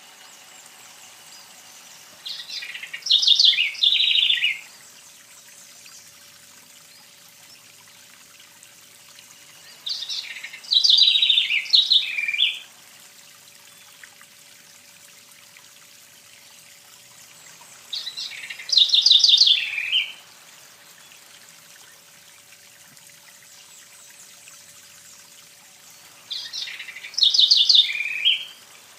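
A songbird singing the same short, quick phrase four times, each about two and a half seconds long and spaced about eight seconds apart, over a faint steady hiss.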